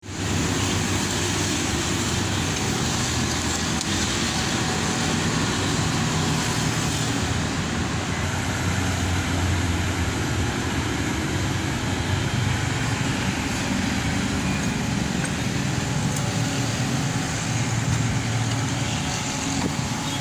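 Steady low rumbling background noise with no distinct events and no change in level.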